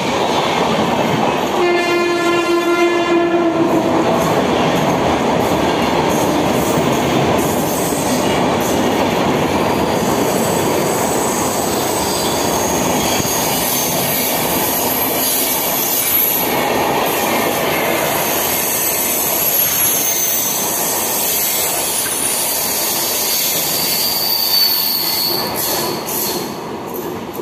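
An express train of LHB passenger coaches running past at speed, with a steady rumble and clatter of wheels over the rail joints. A train horn sounds for about two seconds near the start, and high-pitched wheel squeal rings over the rumble in the second half. The noise starts to fall away at the very end as the rear power car goes by.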